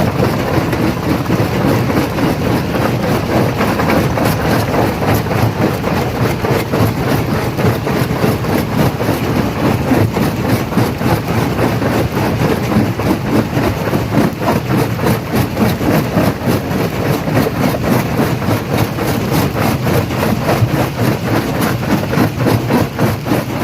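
Industrial rock crusher crushing stone: a steady heavy machine running under a dense, continuous clatter of rocks cracking and knocking, with no let-up.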